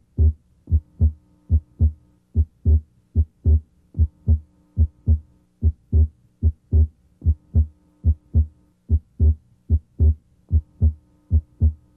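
Heart sounds heard through a stethoscope at the left second interspace: a steady repeating S1 and S2. The second sound is split abnormally wide, the split coming and going with the patient's deep breathing.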